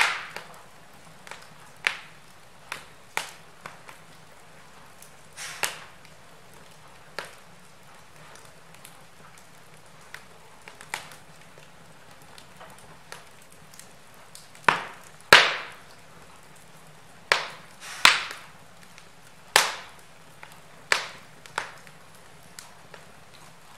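Wood fire crackling in a fireplace: irregular sharp pops and snaps over a low, steady hiss, with a run of louder pops in the second half.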